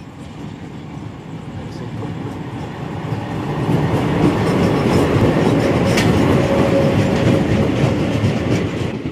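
Train passing close by on the station track, with wheels clattering and rumbling on the rails. It grows louder as the locomotive comes alongside, then holds loud as the coaches rush past.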